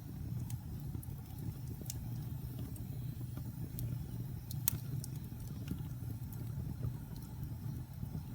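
Wood fire burning in a fireplace: a steady low rumble of flame with scattered sharp crackles and pops, one louder pop just past halfway.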